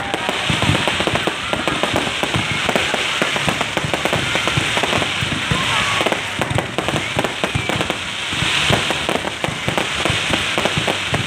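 Fireworks bursting and crackling in a dense, continuous stream of bangs and pops, several a second, with crowd voices underneath.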